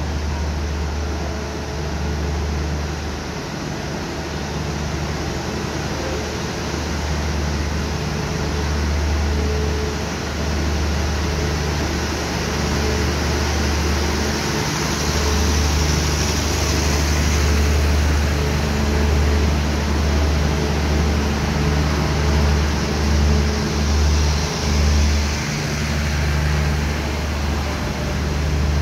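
Passenger train coaches rolling slowly past along the station track, with a steady low rumble that swells and dips.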